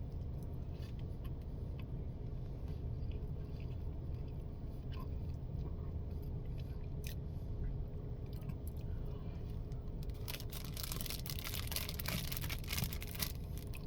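Eating a cherry Twinkie: scattered small clicks, then a few seconds of dense crackling about ten seconds in, like a plastic snack wrapper being handled. A steady low hum sits underneath.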